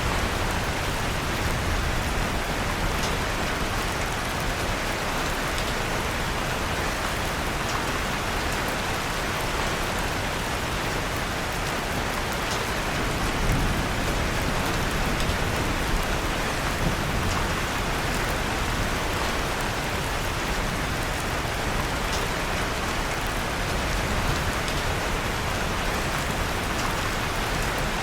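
Steady rain falling, with faint scattered crackles from a fireplace fire and a couple of soft pops in the middle.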